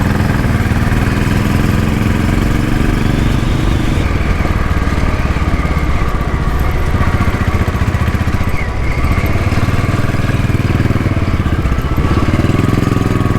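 Royal Enfield Bullet's single-cylinder four-stroke engine running under way, its note climbing over the first few seconds, dipping about eight seconds in and climbing again near the end as the throttle changes.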